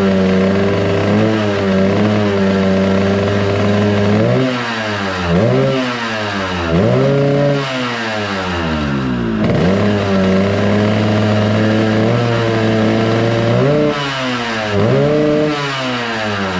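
Yamaha RX-King's single-cylinder two-stroke engine idling, blipped up and down with the throttle several times a few seconds in and again near the end.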